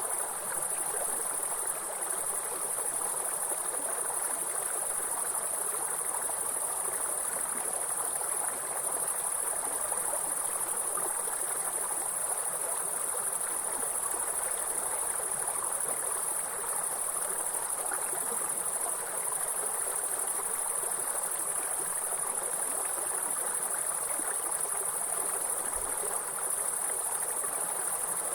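Steady high-pitched insect trilling over the even rush of a flowing stream.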